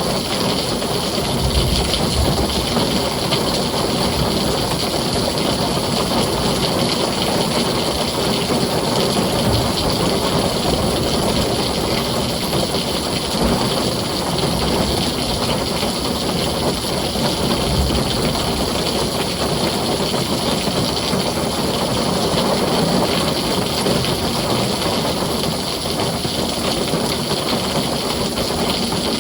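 Heavy rain on a tin roof: a steady, dense hiss and patter that holds an even level.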